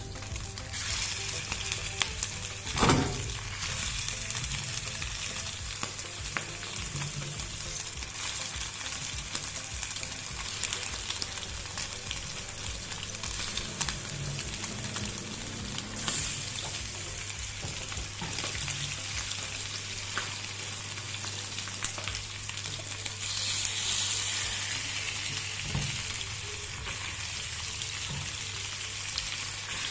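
Marinated bone-in chicken pieces sizzling as they fry in hot oil in a pan, a steady crackling hiss. A few knocks, the loudest about three seconds in.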